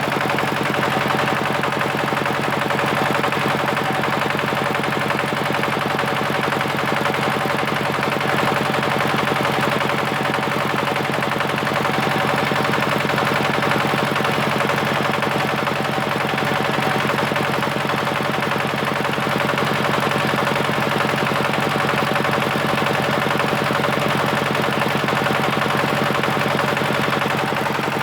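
Diesel engine running at a steady speed with a fast, even knocking.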